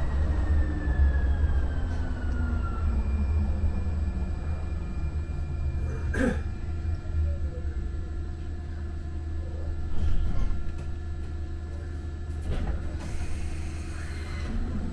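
Muni Metro light-rail train rumbling through the subway, with a whine that falls in pitch over the first few seconds as it slows into a station, and a single sharp clunk about six seconds in.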